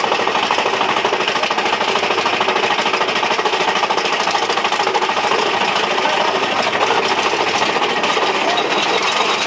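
Big Thunder Mountain Railroad mine-train roller coaster rattling along its track, heard from aboard the train: a loud, fast, steady clatter of wheels and track.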